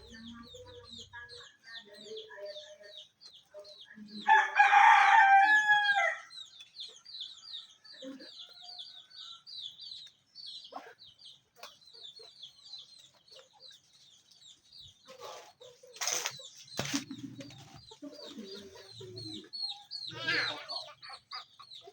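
Chickens clucking, and a rooster crowing once for about two seconds, starting about four seconds in. A fast run of high chirps goes on throughout, and there are a couple of sharp knocks near the end.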